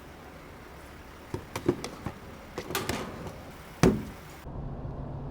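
A few light clicks and knocks over steady low background noise, then one sharp thump just before four seconds in; shortly after, the background changes to a steady low hum.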